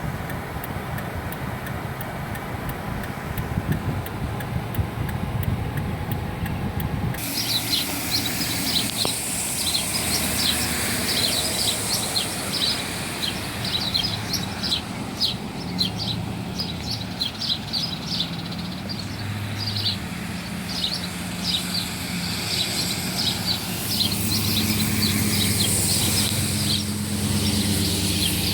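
Low outdoor rumble for about seven seconds, then an abrupt change to birds chirping rapidly and continuously, several high chirps a second, over a low steady hum.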